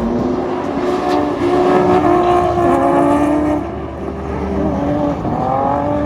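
Drift car engines revving and running at high revs, several at once at different pitches, with one rev climbing about five seconds in.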